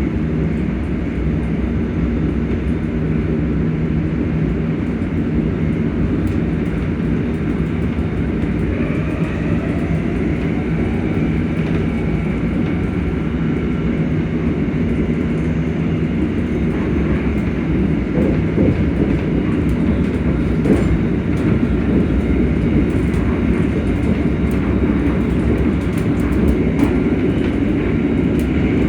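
ScotRail Class 385 electric train heard on board, its traction motors humming steadily over the rumble of the wheels on the rails. About eight seconds in, a motor whine rises in pitch. In the later part, scattered clicks from the track come through.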